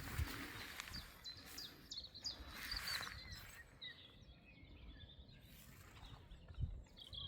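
Wild songbirds calling in short, high chirps, a quick series in the first three seconds and a few more later, over a steady outdoor background hiss with a few brief rustles.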